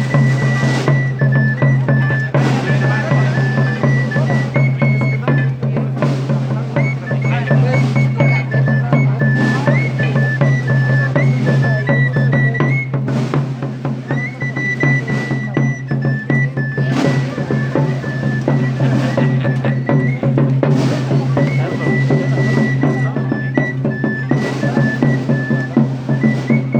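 Procession music: a high piping melody of held, stepping notes over a drum struck about every two seconds, with a steady low drone beneath.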